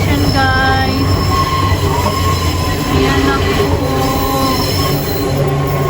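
Electric tram running on its rails, a steady low rumble with the wheels squealing in drawn-out high tones that come and go.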